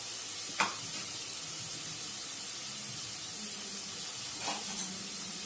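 Diced carrot frying in hot oil in a wok, a steady sizzle. A sharp click comes about half a second in, and two softer ones near the end.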